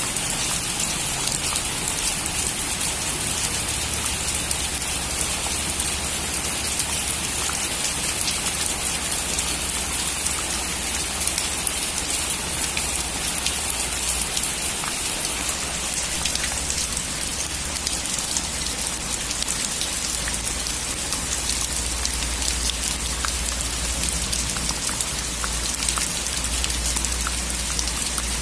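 Steady rain falling: an even hiss with scattered single drop taps.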